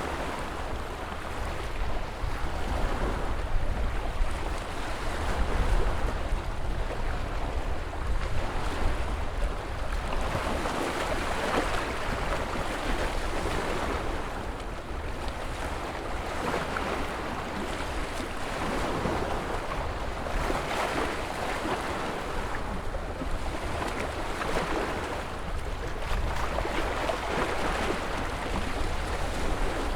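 Ocean waves breaking and washing on the shore, with a low rumble, the surf swelling and easing every few seconds.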